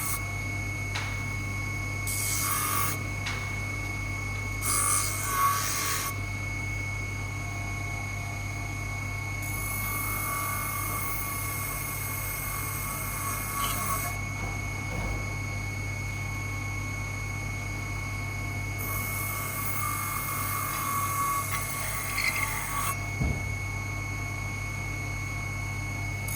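Abrasive rubbing on the workpiece, filing or sanding in several stretches of a few seconds each, over a steady motor hum.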